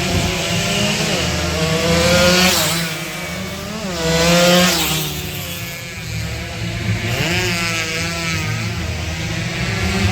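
Two-stroke underbone racing motorcycle engines revving hard, their pitch climbing and dropping again and again as they accelerate and shift. The loudest surges come about two and about four and a half seconds in.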